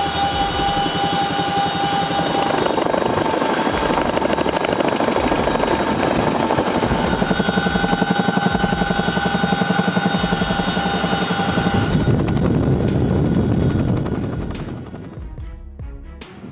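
CH-47 Chinook tandem-rotor helicopter: rapid rotor blade chop over a steady turbine whine, fading out near the end.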